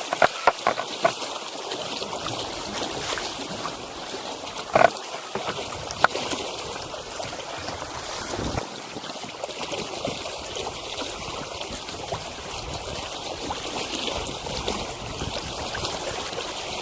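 Water trickling and lapping along the hull of a small sailing dinghy under way, with a few sharp knocks; the loudest knock comes about five seconds in.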